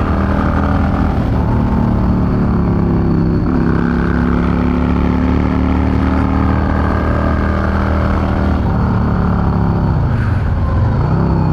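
Yamaha V Star 650's V-twin engine running steadily as the motorcycle cruises. Its pitch drops near the end and then picks up again.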